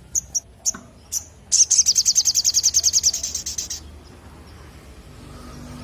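Sogon (little spiderhunter) calling: a few sharp, high single chirps, then a rapid high trill of about a dozen notes a second lasting about two seconds.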